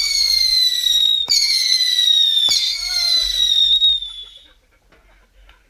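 Whistling fireworks: a run of shrill whistles, each starting with a sharp crack and sliding slowly down in pitch, one following on about every second and a half. The whistling fades out about four seconds in.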